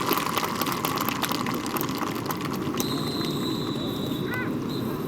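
Outdoor background noise from a crowd at an airfield. A dense crackle thins out about two and a half seconds in, and then a faint steady high whine runs on.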